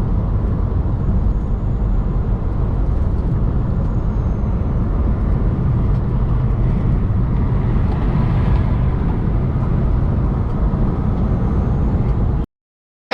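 Semi truck driving on the road: steady engine and road noise, heaviest in the low end, which cuts off suddenly near the end.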